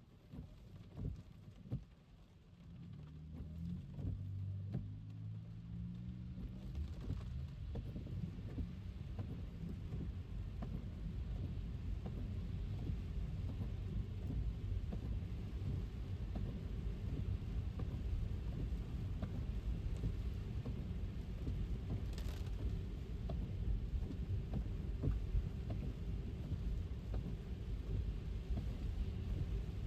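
Car driving on a wet road in the rain: a low rumble of tyres on the wet surface with a rain hiss on top. It starts near quiet, builds over the first ten seconds or so, then holds steady, with a brief splash-like hiss about two thirds of the way in.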